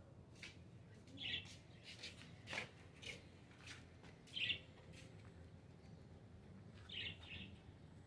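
Small aviary birds chirping: a few short chirps spaced a few seconds apart, with faint clicks and taps between them.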